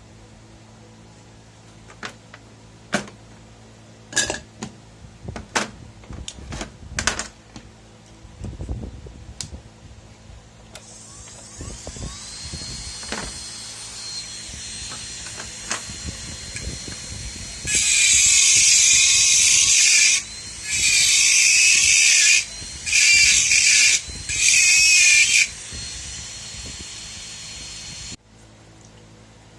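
Scattered clicks and knocks of small tools being handled, then a dental lab micromotor handpiece starts up with a steady whine. Just past the middle it grinds hard into the denture acrylic in four loud bursts before the motor stops near the end.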